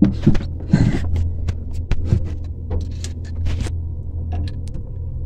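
Gearbox oil dipstick being pushed into its filler hole on a small marine diesel, heard as a series of small clicks and knocks, loudest in the first second, over a steady low hum.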